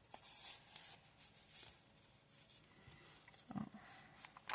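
Paper rustling and light clicks as the pages and paper tags of a handmade junk journal are handled and turned, in short scattered rustles.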